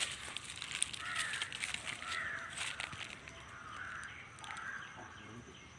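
Birds calling several times, with scattered clicks in the first few seconds.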